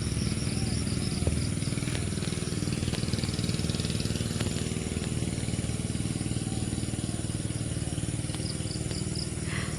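A small engine running steadily at an even low pitch, with a thin, steady high-pitched tone above it.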